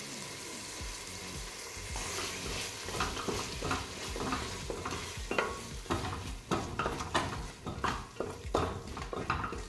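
Ground masala paste frying and sizzling in hot oil in a pressure cooker, being fried until its raw smell goes. From about three seconds in, a wooden spatula stirs and scrapes against the pot at about two or three strokes a second.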